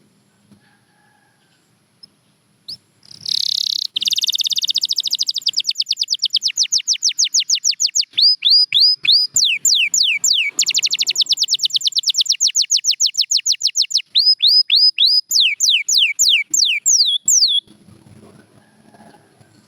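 Domestic canary singing one long song that starts about three seconds in: a buzzy opening note, then long runs of quick repeated notes, many of them sweeping downward, with the speed changing from one run to the next. It stops abruptly near the end.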